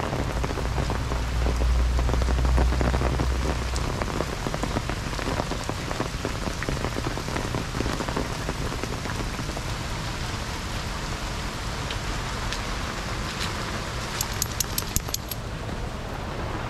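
Heavy rain falling and pattering steadily, from the rain bands of Hurricane Ida. There is a low rumble under it for the first few seconds, and a quick run of sharp ticks near the end.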